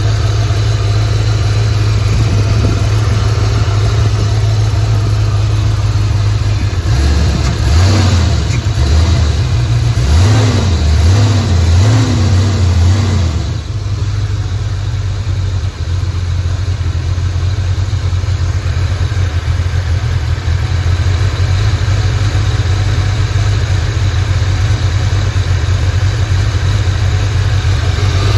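Fox-body Mustang's 5.0 V8 idling smoothly, just revived after sitting about two and a half years. Starting about seven seconds in, it is revved up and down several times, then settles back to idle.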